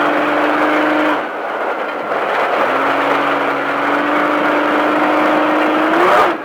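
Off-road race truck's engine running hard under throttle over a steady rush of road and wind noise. The throttle comes off about a second in, then the engine note returns and climbs slowly before cutting off sharply near the end.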